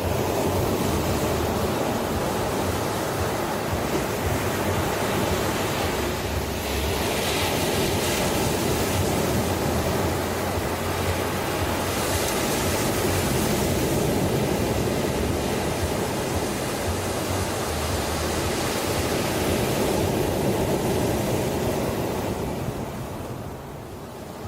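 Ocean waves surging and washing ashore: a steady rush of surf that swells at the start and eases off shortly before the end.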